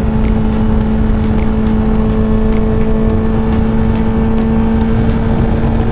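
Honda CBR1000RR sport bike's inline-four engine running at a steady cruise, its pitch holding level with no revving.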